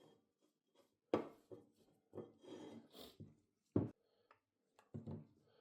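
Irregular short knocks and scrapes of parts and tools being handled in restoration work, with a longer rubbing scrape about halfway through.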